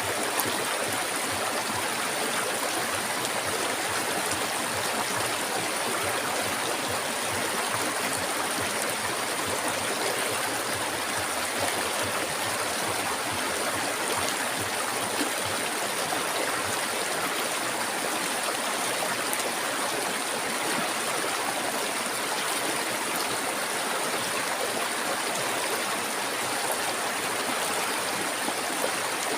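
River water flowing steadily over rocks, an even rushing and gurgling with no breaks.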